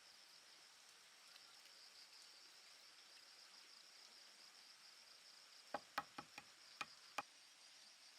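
Faint, steady chirring of insects such as crickets in a high, finely pulsing band. A little under six seconds in comes a quick run of about six sharp knocks over a second and a half, the loudest sounds here.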